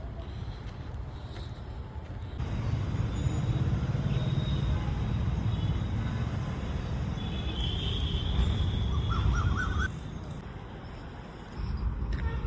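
A low, noisy rumble that gets louder a couple of seconds in and drops back near the end, with a few short bird chirps about nine seconds in.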